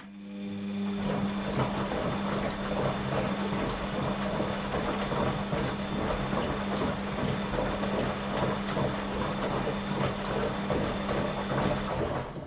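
Washing machine running for about twelve seconds: a steady hum over rushing, splashing water. It starts suddenly and cuts off shortly before the end.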